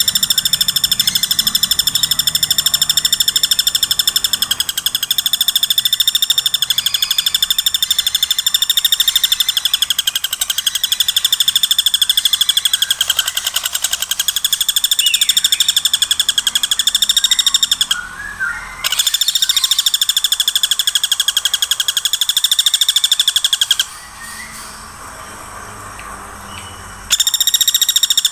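Woodpecker giving a fast, high-pitched rattling call over and over with hardly a pause. The rattle breaks off briefly once, and later stops for about three seconds before starting again.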